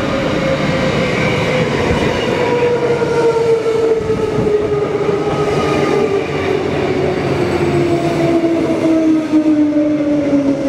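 Electric passenger train pulling into the platform, its motors whining in a tone that falls steadily in pitch as the train slows, over the rumble of the wheels on the rails.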